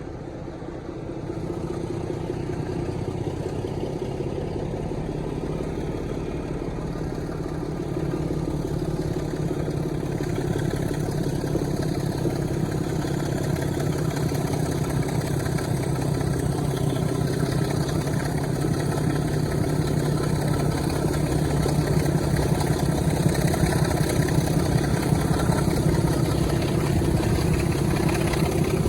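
Diesel locomotive engine running with a steady note that grows louder, stepping up about a second in and again partway through.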